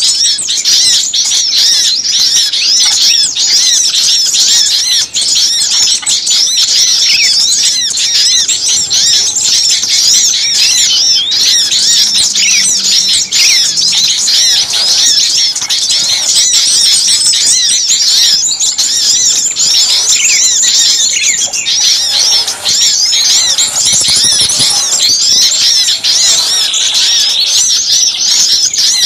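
A noisy chorus of many small songbirds chirping and twittering at once, the high rapid calls overlapping without a break. It is a bird-lure recording of small birds calling in agitation, used to draw other small birds in.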